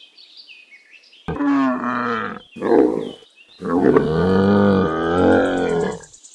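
Camel calling: three low, pitched calls, the last and longest lasting about two and a half seconds.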